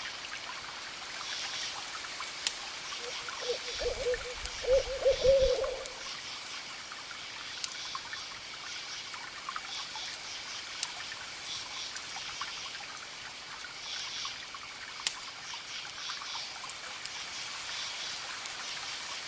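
Campfire crackling with sharp scattered pops while crickets chirp in short repeating pulses. About four seconds in, an owl hoots a short run of low hoots.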